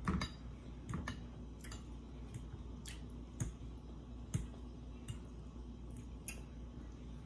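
Close-miked eating sounds: chewing and wet mouth smacks, with scattered sharp clicks at irregular intervals, some from a fork against a glass bowl.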